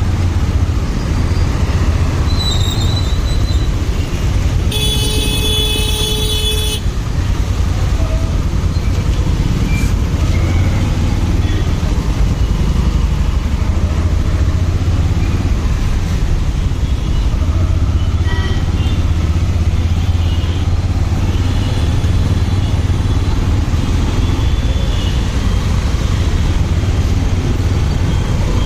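Motorcycle riding in traffic: a steady low rumble of engine and wind. About five seconds in, a vehicle horn sounds for about two seconds.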